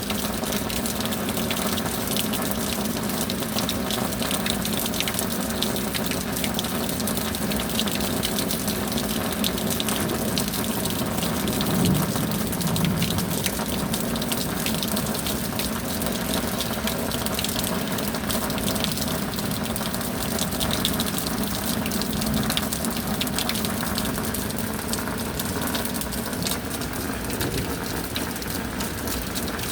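Steady rain with pouring, splashing water and many fine drop ticks, swelling briefly about twelve seconds in.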